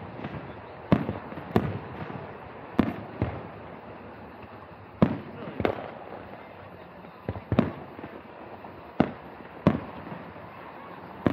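Aerial fireworks shells bursting: about a dozen sharp bangs at uneven intervals, each trailing off briefly.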